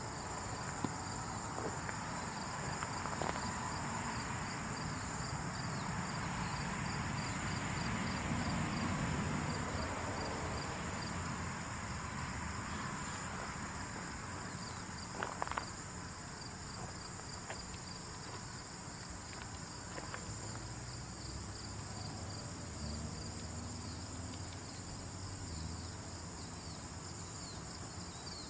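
A steady, high-pitched insect chorus: a continuous trill with quick repeated chirps layered over it, above a low rumble. There are a few faint clicks, the clearest about fifteen seconds in.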